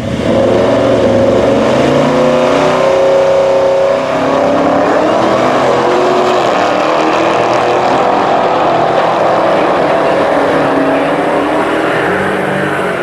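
Drag-racing car engine at full throttle. It starts suddenly and loudly with a steady high pitch, dips briefly about four seconds in, then runs on hard.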